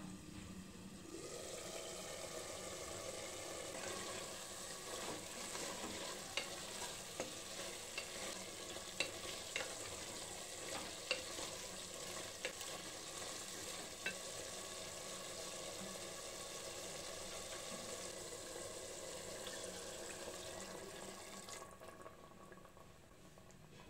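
Chicken masala gravy sizzling in a pressure cooker pot while a spatula stirs it, scraping and clicking against the pot several times in the middle; the sizzling dies down near the end.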